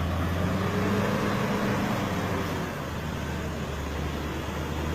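A 4x4 double-cab pickup's engine running steadily as it drives through deep mud. Its pitch rises a little and then eases off about halfway through.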